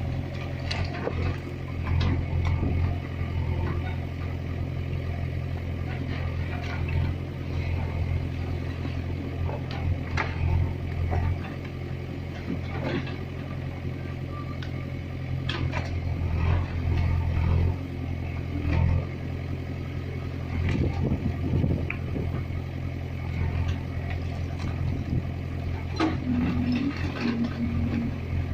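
Heavy diesel engine running steadily at a low, even pitch, with scattered knocks and clatter over it.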